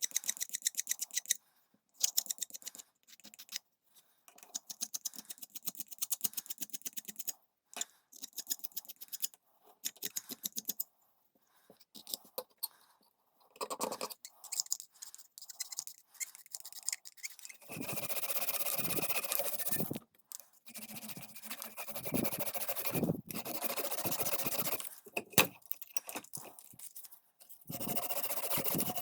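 Scraping and scrubbing on a small wooden-handled screwdriver. Quick, short, rapidly repeated strokes come first, then from about two-thirds in, longer continuous passes of about two seconds each.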